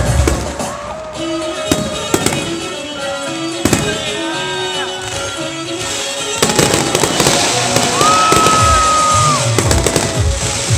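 Fireworks going off in sharp bangs, turning to denser crackling about six seconds in, with music playing along.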